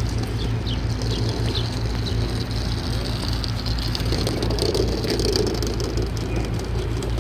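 Steady low rumble of street traffic, with a few faint high bird chirps in the first seconds.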